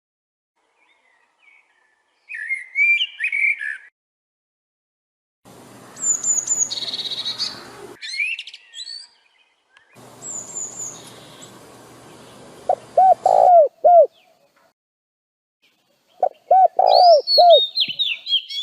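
Songbirds chirping and twittering in short bursts, with two quick runs of low, arching whistled notes. Patches of background hiss start and stop abruptly between the bird calls.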